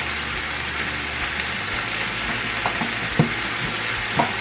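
Steady sizzling of vegetables and shredded chicken frying in a pan, with a few light knocks of cookware in the second half.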